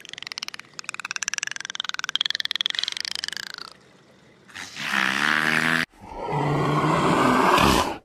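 Killer whale calling at the surface: a rapid, creaking pulsed call with gliding whistle-like tones for about three and a half seconds, then, after a short pause, two lower, buzzier calls.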